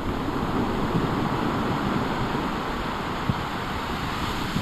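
Wind-driven waves breaking and washing ashore, a steady rushing noise that swells briefly about a second in, with wind buffeting the microphone.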